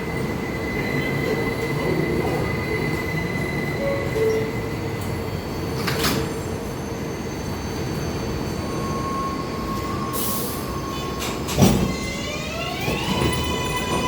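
New York subway train running through an elevated station, with steady wheel-on-rail rumble and thin wheel squeal. Near the end there is a sharp clank, then an electric motor whine that rises in pitch and levels off as a train pulls away.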